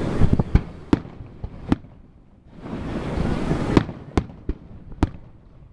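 Aerial fireworks bursting: two swells of hiss, each followed by a string of sharp bangs, about four in the first two seconds and four more near the end.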